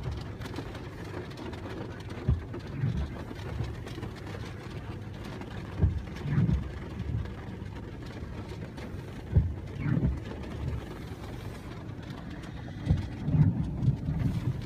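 Steady low rumble of a vehicle, with a short knock followed by a brief low swell about every three and a half seconds, four times.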